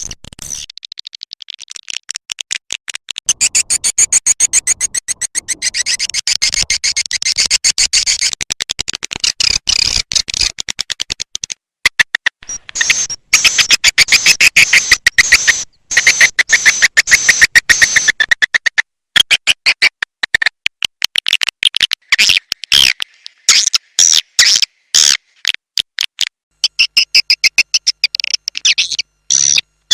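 Edible-nest swiftlet calling-sound recording: a fast, buzzing chatter of swiftlet chirps and clicks, high-pitched, repeated in long runs broken by several brief gaps. It is a lure call played to draw swiftlets into a nest house.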